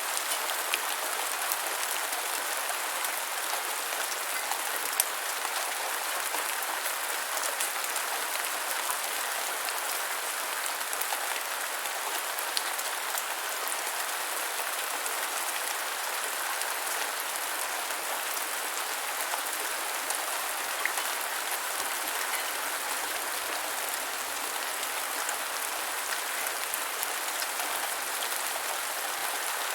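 Gentle rain falling steadily, an even hiss with scattered individual drop ticks.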